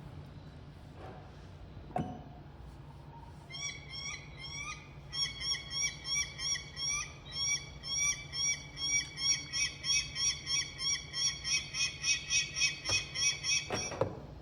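A bird-like call repeated rapidly, about three short rising notes a second, growing louder and then stopping abruptly near the end, over a steady low hum.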